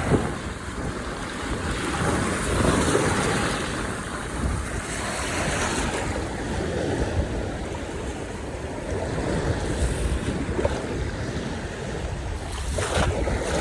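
Sea surf washing onto the shore in swells that rise and fall every few seconds, with wind buffeting the microphone.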